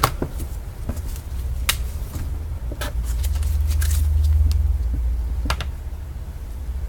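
Low steady rumble that swells about halfway through, with scattered light clicks and rustles from trading cards and their packaging being handled.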